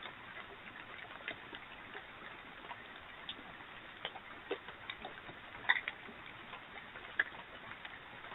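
Irregular faint clicks and ticks, a few every second, over a steady background hiss. A louder double click comes just before the middle and a sharp single one about a second later.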